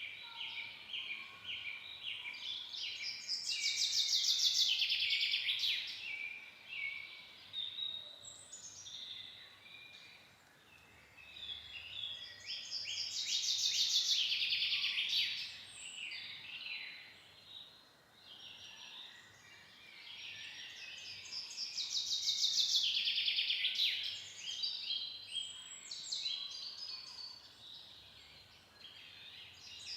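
Forest songbirds singing: a loud, fast trilled song phrase comes back about every nine seconds, with softer chirps and calls in between.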